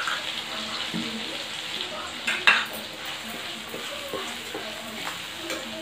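Tomato and spice masala sizzling in hot oil in a metal kadhai, with a metal spatula scraping and clinking against the pan as it is stirred. The loudest scrape comes about two and a half seconds in.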